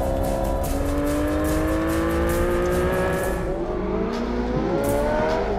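Porsche 918 Spyder's V8 accelerating hard, its pitch climbing steadily through a gear, then dropping sharply near the end as it shifts up.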